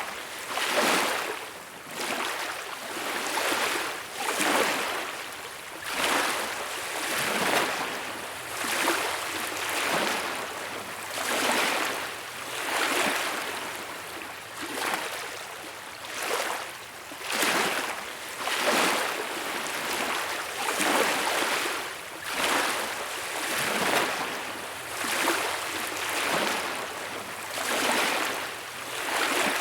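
Small beach waves breaking and washing ashore, the surf rising and falling about every second or two.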